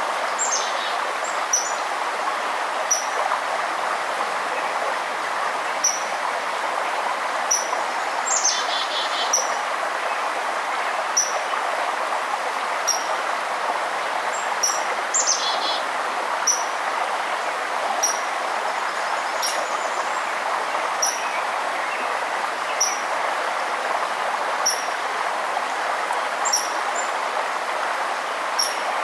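Steady rush of a forest stream, with a bird repeating short high chirps every second or two over it. A different call, a brief falling trill, comes twice, about a third and halfway through.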